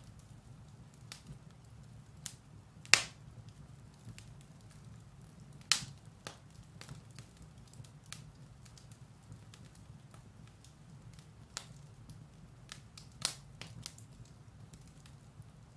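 Firewood burning in a fireplace, crackling with scattered sharp pops over a low steady rumble. Three pops stand out as louder, about three, six and thirteen seconds in.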